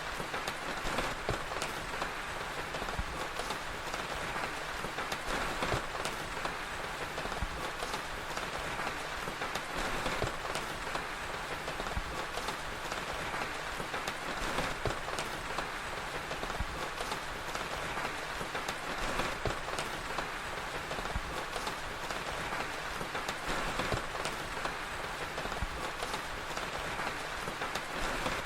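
Steady rain with a crackling fire: an even hiss sprinkled with frequent small pops and clicks.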